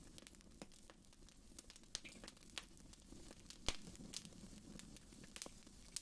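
Wood fire burning in a fireplace: a faint low rumble of flame with irregular sharp crackles and pops, the loudest pop a little past halfway.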